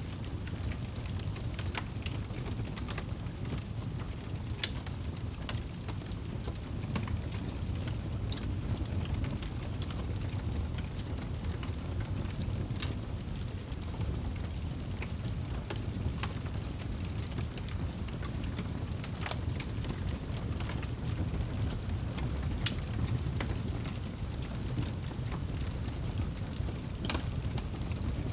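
Wood fire burning in a fireplace: a steady low rush of flames with irregular sharp crackles and pops scattered throughout.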